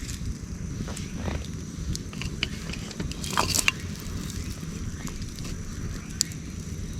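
Wood fire crackling, with scattered sharp pops over a low steady rumble. A louder burst of crackles comes about halfway through, and a single sharp pop near the end.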